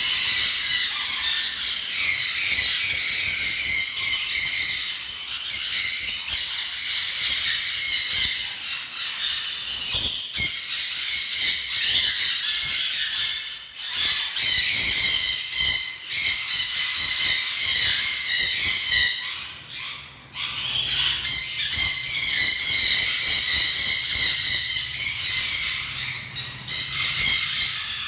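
A flock of caged birds chattering and squawking without a break, many calls overlapping, with a brief lull about twenty seconds in.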